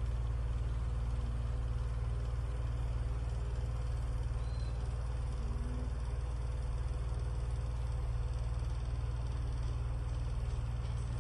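Comfort Zone electric fan running: a steady motor hum with an even rush of air from the blades, which the reviewer finds noisy rather than quiet.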